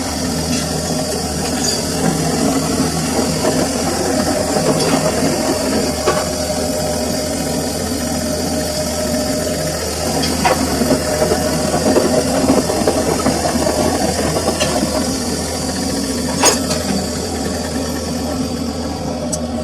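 Samsung washing machine running through its wash cycle: a steady motor and drum hum with a light rattle, broken by a few sharp clicks or knocks, the loudest about sixteen seconds in.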